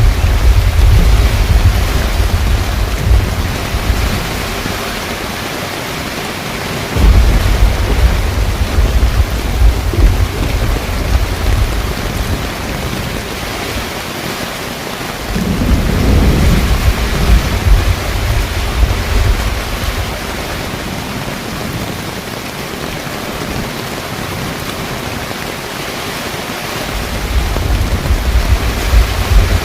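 Heavy rain pouring steadily on a car rooftop tent, with deep thunder rumbles swelling and fading several times: at the start, about seven seconds in, around sixteen seconds, and again near the end.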